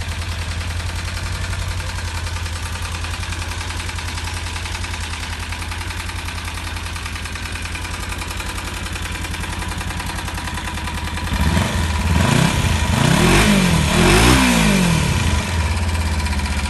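Kawasaki KLE 250 Anhelo motorcycle engine idling steadily after a cold start, then revved in three or so quick blips late on before settling back to idle.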